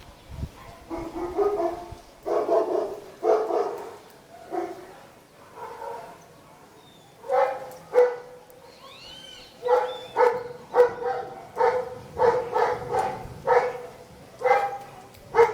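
A dog barking repeatedly: a few scattered barks at first, then a steady run of about two barks a second through the second half.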